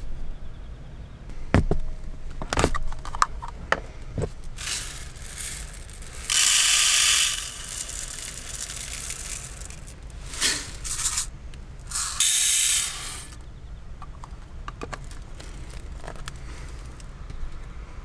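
Small clicks and knocks of things being handled, with two hissing bursts of about a second each, roughly six and twelve seconds in.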